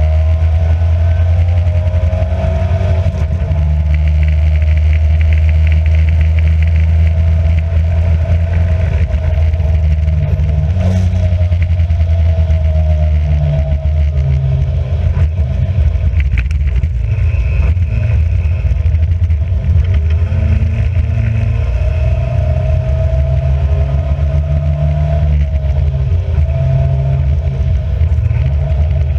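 Racing car engine running hard and loud, its revs climbing and dropping again and again as it is driven through the gears.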